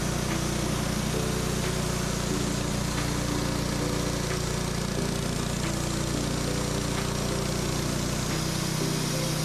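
Portable sawmill's small gasoline engine running steadily, a constant hum with slight shifts in pitch.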